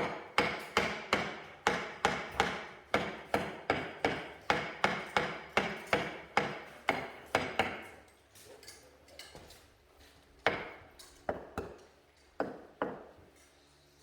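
Hammer blows tapping a tight-fitting piece into place, a steady run of about two to three strikes a second. The run stops about eight seconds in, and after a pause about five more scattered strikes follow.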